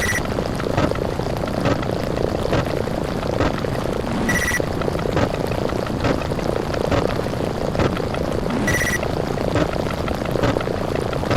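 Loud explosion sound effects fired in rapid succession, overlapping into a steady rumbling noise, with a short high beep about every four seconds.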